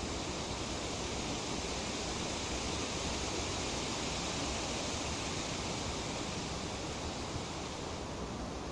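Wind through tree leaves, a steady rustling hiss that swells a little midway.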